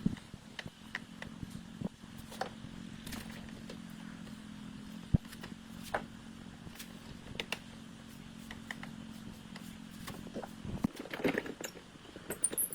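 A small motor running with a steady low hum, with scattered light clicks and knocks; the hum stops near the end, followed by a few knocks.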